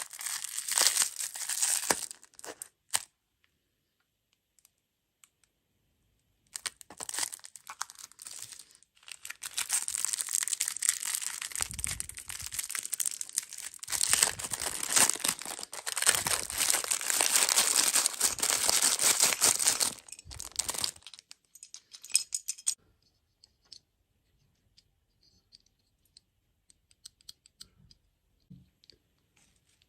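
Plastic food packaging being crinkled and torn open. There is a short spell of crinkling at the start, then a longer stretch of about a quarter of a minute, after which only a few faint ticks remain.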